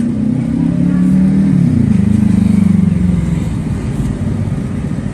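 A passing motor vehicle's engine running, its pitch stepping up about a second and a half in, then fading away after about three seconds.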